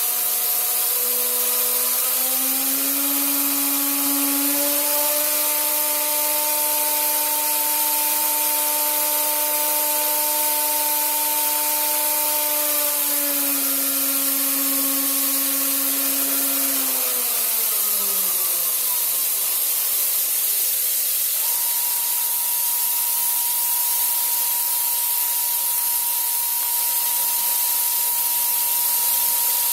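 CNC router's spindle motor (7 HP Colombo) whining over a steady loud hiss. Its pitch steps up a few seconds in and holds. It then falls away in a long downward glide as the spindle spins down. Near the end a single steady higher tone comes in.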